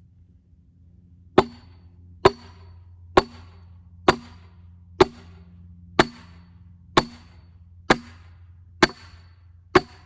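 Ten steady hammer blows on a steel splitting wedge, about one a second, each a sharp clang with a short metallic ring, as the wedge is driven into a knotty cedar log to split a rail.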